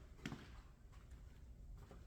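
Near silence: low room tone with a single faint knock about a quarter of a second in.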